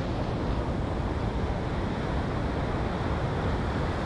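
Water pouring over a weir, a steady unbroken rush of noise.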